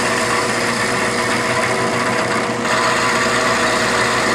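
A half-inch carbide end mill cutting into a 4130 steel tube: steady machining noise with a hum of machine tones. The sound shifts slightly about two and a half seconds in.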